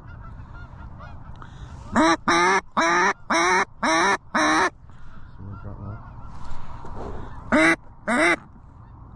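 A hand-blown waterfowl call with a quick run of six loud honking notes about two seconds in, then two more near the end, used to draw an incoming flock toward the decoys.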